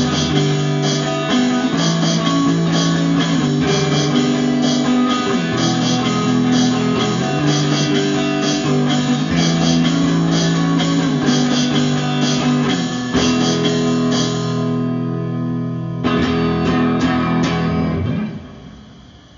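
Instrumental ending of a guitar-led band song, with no vocals. Near the end the band stops and a last chord rings out and fades away.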